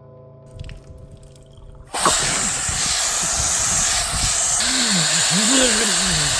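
A sudden loud, steady rushing hiss that starts about two seconds in, after a quiet stretch, with a few low gliding tones near the end.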